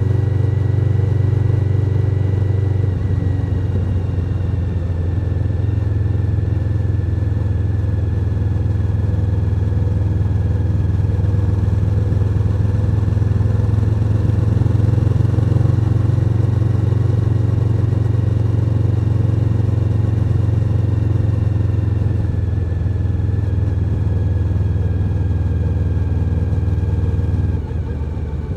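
Suzuki SV1000N's 996 cc V-twin engine running steadily under way. The note shifts slightly about three seconds in, and the throttle eases off near the end.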